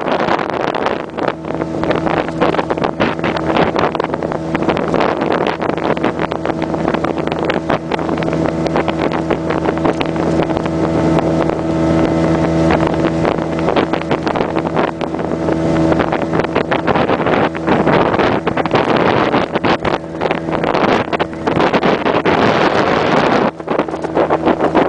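Outboard motor of a small passenger boat running steadily at speed, its engine hum under the rush of wind and water, with gusts buffeting the microphone.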